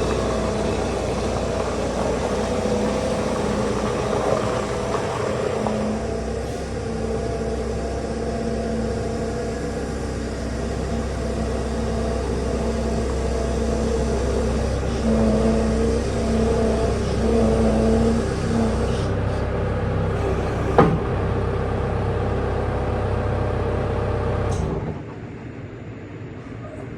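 Skid-steer loader engine running steadily, its pitch wavering slightly, with one sharp knock about 21 seconds in. Near the end the engine sound drops off abruptly, leaving a quieter hum.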